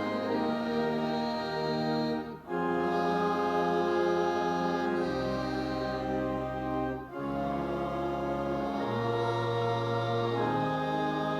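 Church organ playing slow, sustained chords over a held bass line that moves, breaking off briefly twice between phrases.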